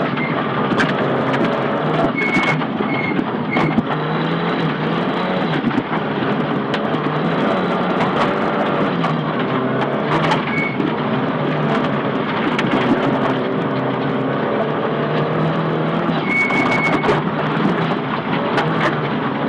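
Nissan Silvia S15 rally car at speed on a rally stage, heard from inside the cabin: the engine revs rise and fall again and again through the gears and corners. Sharp knocks and clicks from the road striking the car are heard throughout.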